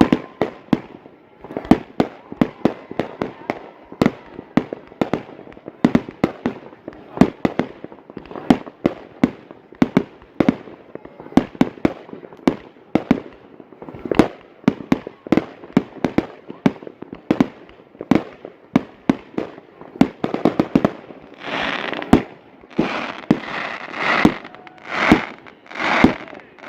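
Fireworks going off in a rapid, irregular series of sharp bangs. In the last few seconds the bursts are louder and longer.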